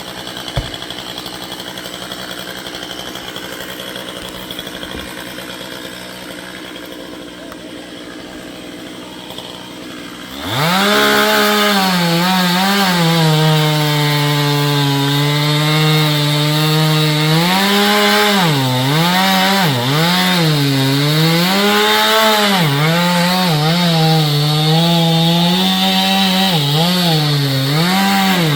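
An engine runs steadily at a lower level for about ten seconds. Then a Stihl chainsaw comes in loud at full throttle, cutting into wood, its pitch sagging and recovering again and again as the chain is loaded in the cut.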